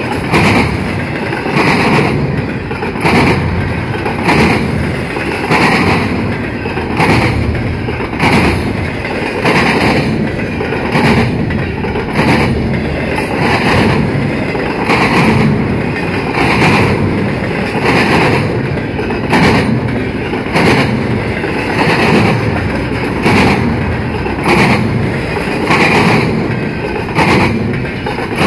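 Freight train's intermodal well cars rolling past, a steady rumble with the steel wheels clacking over the rails in an even rhythm of a little more than one clack a second.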